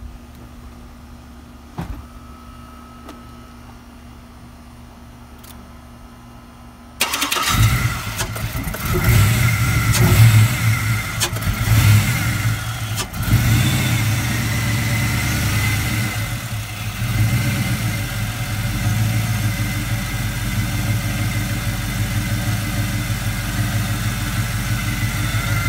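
GM LS V8 truck engine, freshly fitted with a Texas Speed low-lift cam and LS6 valve springs, starting for the first time: it catches about seven seconds in, revs briefly, then settles into a steady idle.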